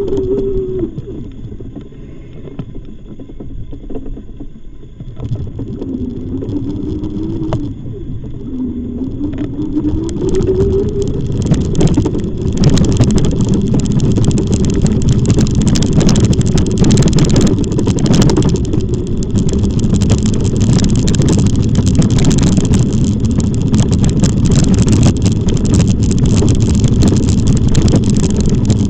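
Electric bike motor whining, its pitch sliding down and back up with speed. From about a third of the way in, a loud, steady rushing noise of wind and tyres rises over the whine.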